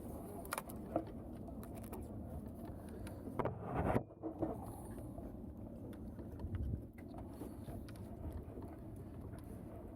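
Steady low rumble of a motorboat on the water, with a few light knocks and a louder burst about three and a half seconds in that cuts off abruptly.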